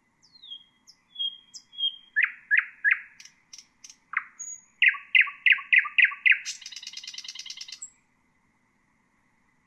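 Nightingale singing: thin high whistles, then loud repeated notes, first three and then a run of six, ending in a fast rattling trill that stops about eight seconds in.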